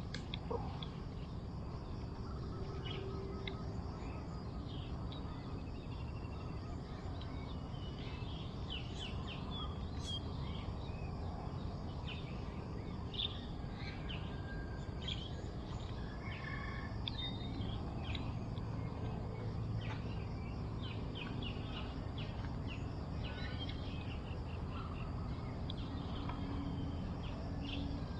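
Birds chirping, many short high calls scattered throughout, over a steady low rumble of outdoor background noise.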